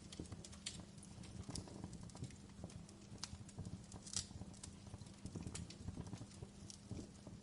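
Fire crackling: irregular sharp pops and snaps, a strong one about four seconds in, over a steady low rumble.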